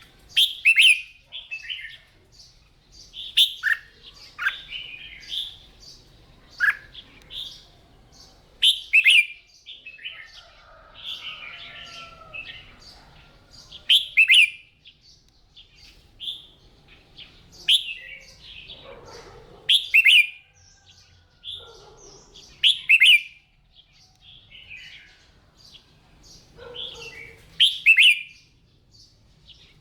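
Red-whiskered bulbul singing short, loud, whistled phrases every two to three seconds, with softer twittering between them.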